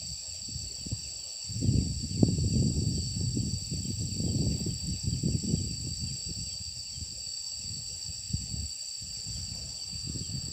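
A steady, high-pitched chorus of night insects such as crickets, holding two even tones throughout. Irregular low rumbles come and go beneath it, loudest in the first half.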